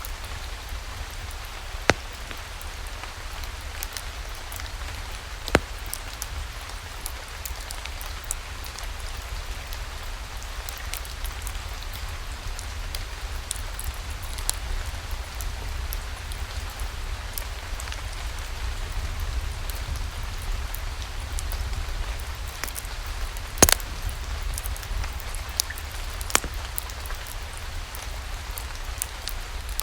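Steady rain falling, with a low rumble underneath and scattered sharp pops and crackles from a wood fire, a few of them standing out louder.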